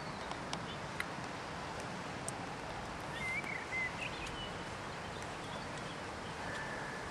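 Outdoor ambience: a steady background hiss with a few short chirping bird calls about three to four seconds in, and a brief whistled bird note near the end.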